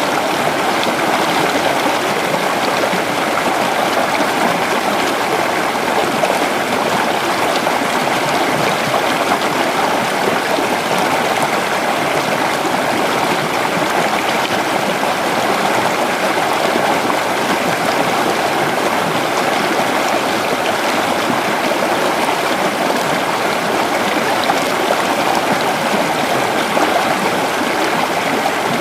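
Creek water running steadily over rocks, a continuous rushing and gurgling with no breaks.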